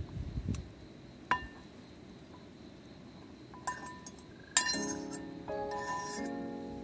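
Camp cookware and utensils clinking: several sharp, briefly ringing taps a second or more apart, then a busier stretch of clattering with a short hiss.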